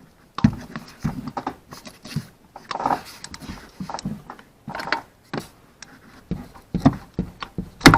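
Hand tools working on the coil-pack bolts in the engine bay: a run of irregular metallic clicks, knocks and clatter, the sharpest knocks near the end.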